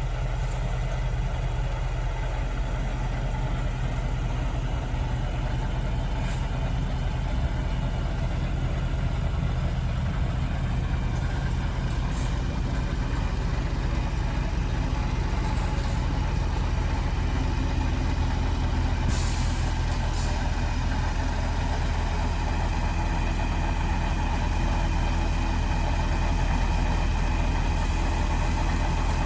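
Scania R520's 16.4-litre V8 diesel idling steadily, with a few light clicks and a short hiss about two-thirds of the way through.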